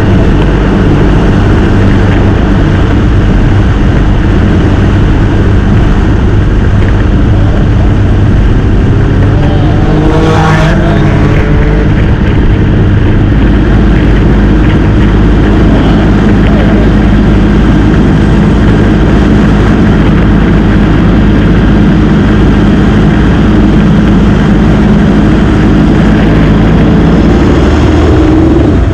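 Motorcycle engine running steadily at road speed under heavy wind noise, with a brief sweep in pitch about ten seconds in.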